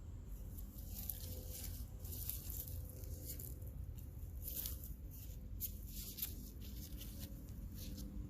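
Irregular crackling and rustling of soil and potato plants being handled during digging, over a steady low rumble.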